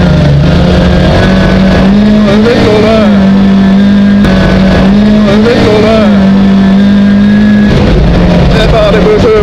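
Rally car's engine running hard at high revs while the car is driven on a snow track, heard very loud from inside the cabin. The pitch mostly holds steady, with brief dips and rises as the throttle is lifted and reapplied.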